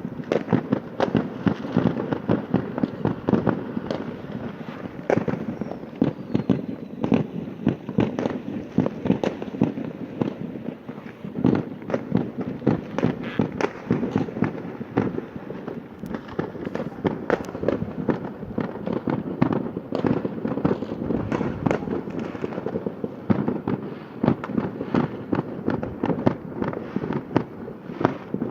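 Fireworks display: a continuous, rapid barrage of bangs and pops, many each second.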